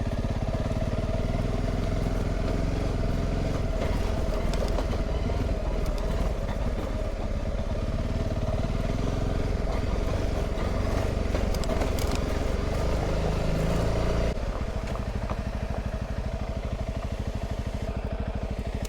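Honda CRF300 Rally's single-cylinder engine running steadily as the motorcycle rides along, a little quieter for the last few seconds, then cutting off suddenly at the end.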